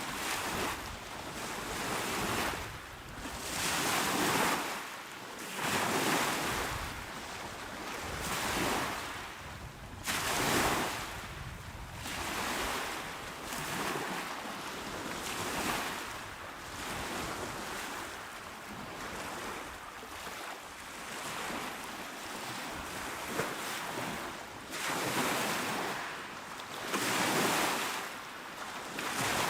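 Calm sea waves washing onto the shore, a steady wash of surf that swells and falls back every two to three seconds.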